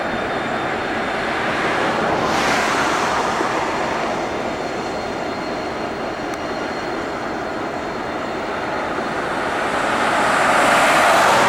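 A train passing close by: a steady rolling rush of wheels on rail that grows louder near the end, then cuts off suddenly.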